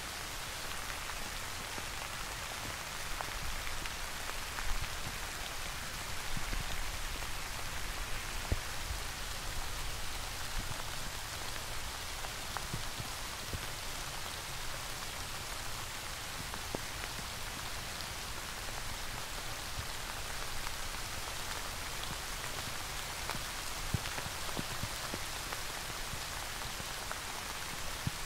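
Steady rain falling: an even hiss with scattered louder drips.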